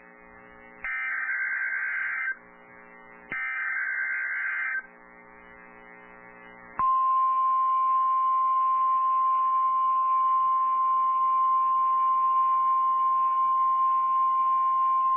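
NOAA Weather Radio alert signalling: the last two of three screeching SAME digital header bursts, each about a second and a half long, then about seven seconds in the steady single-pitch 1050 Hz warning alarm tone starts and holds. It is the sign that a warning is about to be read.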